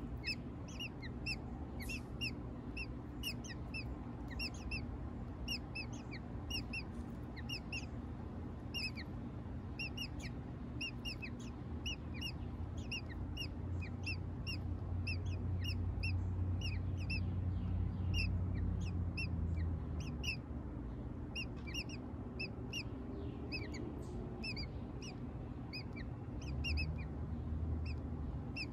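Birds peeping: short, high, thin chirps repeated steadily, two or three a second, over a low rumble that swells in the middle and again near the end.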